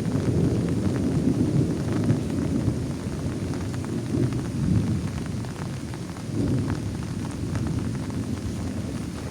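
Heavy rain falling on a plastic tarp, under a steady low rumble of thunder, with scattered drop ticks on top.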